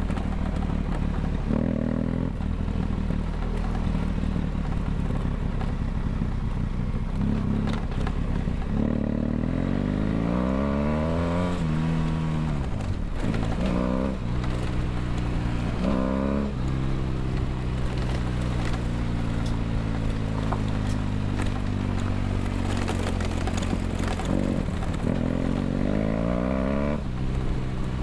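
BMW F800GS parallel-twin engine through a LeoVince LV ONE EVO stainless exhaust, heard onboard while riding: the revs rise and drop several times with gear changes, then fall slowly over a long stretch as the bike eases off, before picking up again near the end.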